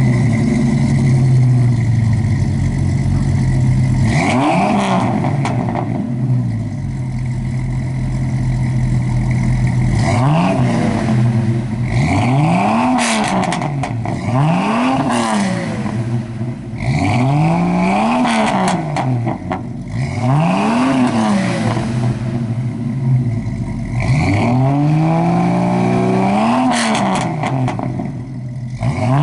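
Two Jeep Cherokee 4.0 straight-six engines breathing through Flowmaster 40 series mufflers, one with a single outlet and one with dual exhaust, revved over and over. After a few seconds of idle, the engine speed jumps up and falls back roughly every two seconds, with two revs overlapping near the end.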